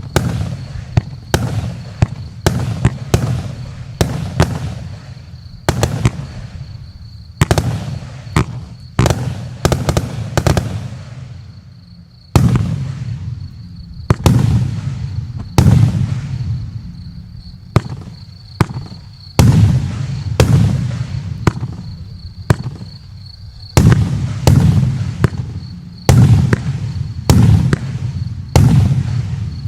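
Joker Fireworks 'Mr Kva' (JF C10) 100-shot fireworks cake firing, its 0.8–1.2-inch shells bursting in a rapid run of sharp bangs, about one or two a second, each trailing off in a short fading rumble.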